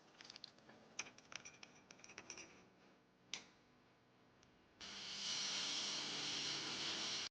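Small metal clicks and scrapes of watchmaker's tools working on a wristwatch, then a steady hiss starting about five seconds in that cuts off suddenly at the end.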